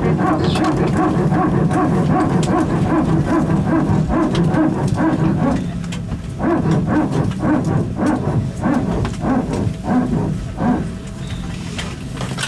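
Airbus A320 hydraulic power transfer unit barking: a steady pitched whine for about six seconds, then a run of short repeated pulses, about two a second, that die away near the end. The PTU runs when pressure differs between the aircraft's green and yellow hydraulic systems.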